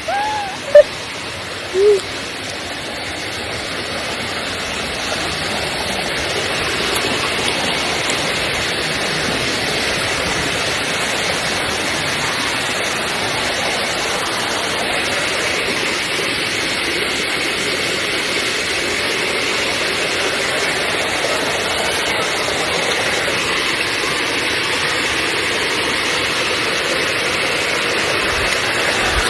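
Waterfall rushing steadily, growing a little louder over the first few seconds.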